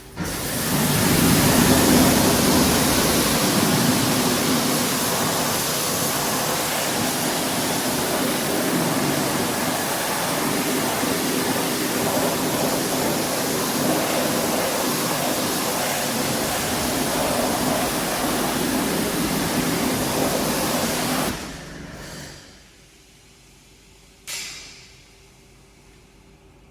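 Pressure washer jet spraying a car wheel, a loud steady hiss of water that cuts off suddenly about 21 seconds in. A single brief knock follows near the end.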